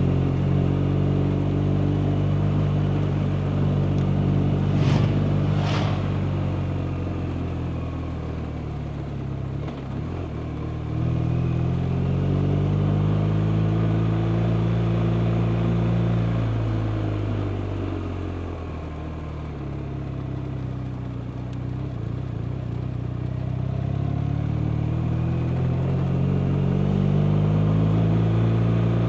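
BMW R 1250 RT motorcycle's 1254 cc boxer-twin engine under way, heard from the bike as it rides. The engine note drops as it slows, breaks briefly about ten seconds in, then rises and falls again with the throttle before climbing near the end. Two short sharp clicks come a few seconds in.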